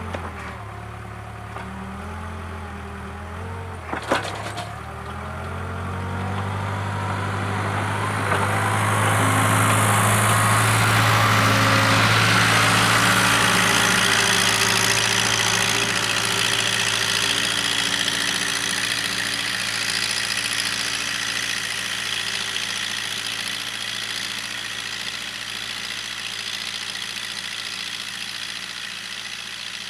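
Case 580K loader backhoe's diesel engine running, its pitch shifting in the first few seconds, then growing louder from about six seconds in before easing back down. A single sharp clank about four seconds in.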